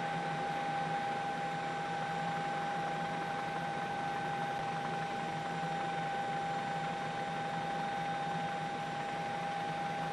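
Steady helicopter cabin noise: an even hiss with a constant whine, unchanging throughout.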